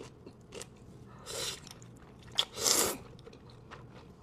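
Close-miked mouth sounds of eating a bite of shrimp with Buldak noodles: chewing and biting, with a few sharp clicks and two short noisy mouthfuls, the second louder, about a second and a half in and again a second later.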